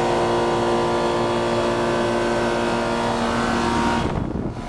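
Two Comfortmaker 2-ton central air conditioner condensing units, each with a Copeland reciprocating compressor, running under a high heat load. They make a steady, loud hum with fan noise. About four seconds in, the hum briefly gives way to a rougher low rumble before it returns.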